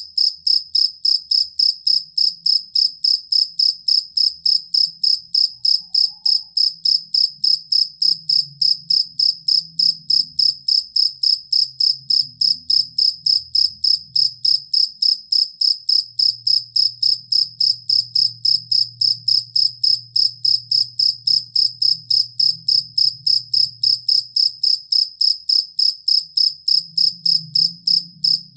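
Field cricket chirping in a steady, even rhythm, about three to four short chirps a second, each a high pure-sounding pulse.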